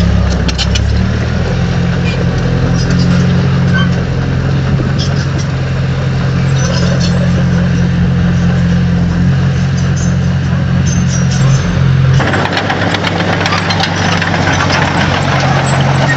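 Diesel engine of heavy earthmoving equipment running steadily. About twelve seconds in, a louder, rougher noise joins the engine.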